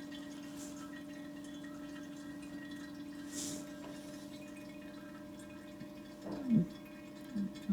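Gear oil trickling and dripping from the Mercedes Sprinter's transfer case drain hole into a catch container, under a steady low hum.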